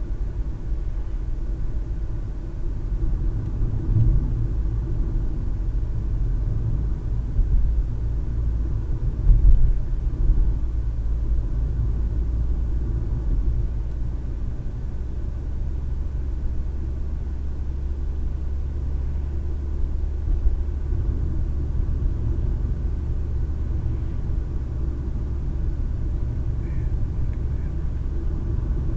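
Car interior noise picked up by a dash cam while driving: a steady low rumble of tyres and engine, with a few brief louder thumps, the loudest about nine seconds in.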